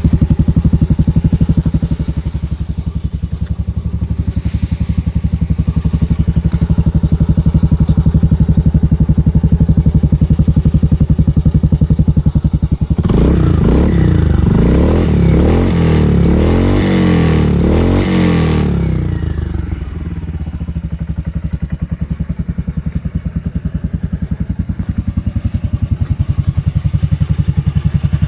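Yamaha Majesty 250 scooter's single-cylinder four-stroke engine idling steadily. About halfway through, the throttle is blipped several times over about five seconds, rising and falling in pitch, and then the engine settles back to idle, as in a running check.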